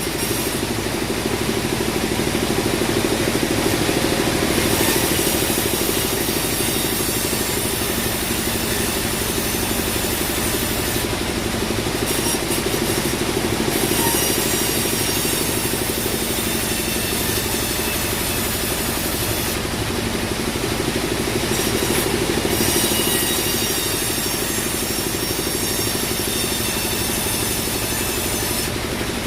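Bandsaw sawmill running, a steady motor drone under the high hiss of the blade cutting teak wood; the hiss drops away twice for a few seconds and comes back.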